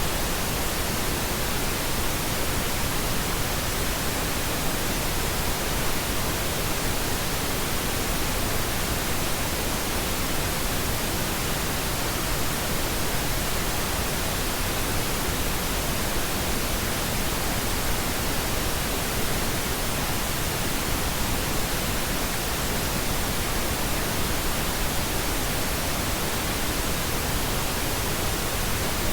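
Steady pink noise: an even, unchanging hiss spread across the whole range of pitch, with no events or variation.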